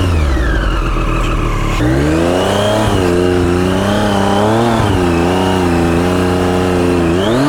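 Motorcycle engine revving in uneven bursts: the revs drop at the start, climb again about two seconds in, rise and fall a few times, then climb near the end.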